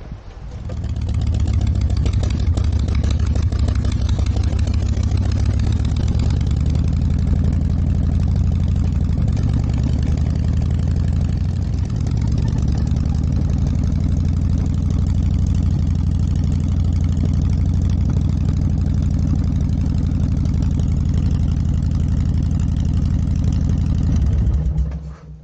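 Harley-Davidson V-twin motorcycle engine starting and settling into a steady idle, then switched off near the end.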